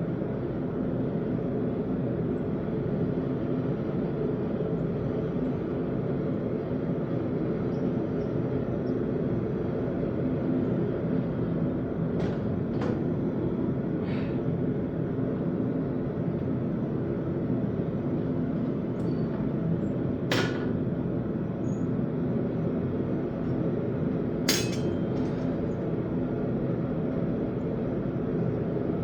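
A steady mechanical drone with a low hum, broken by a few sharp clicks or knocks, the loudest about twenty seconds in and another near the end.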